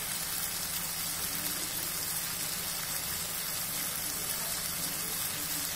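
Chicken masala sizzling steadily in oil in an aluminium pressure cooker on the stove.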